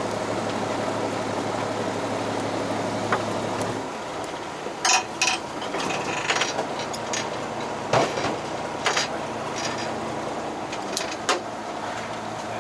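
A boat engine runs with a steady hum and drops away about four seconds in. Scattered sharp knocks and clicks of gear being handled follow.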